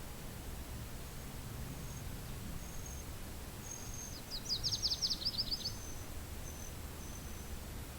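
Steady low wind rumble, with a small bird singing one quick trill of rapid descending notes about halfway through. Faint, thin high notes repeat in the background.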